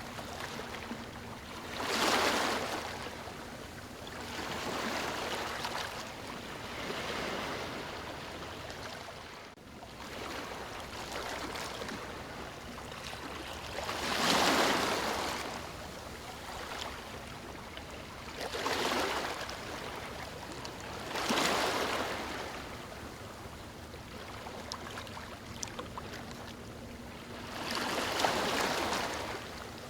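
Moving water: a steady rushing wash, swelling louder in surges a second or two long, about five times.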